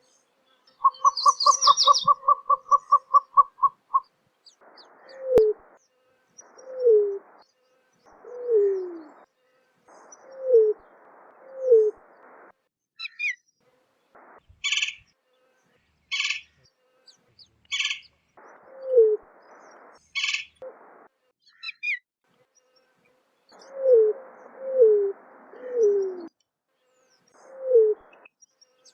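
Greater roadrunner cooing: low, dove-like coos that each slide downward in pitch, given singly or in quick runs of two or three, about eleven in all. A rapid series of pulsed notes, about four a second, runs for three seconds near the start, and short high chirps of other birds come in between.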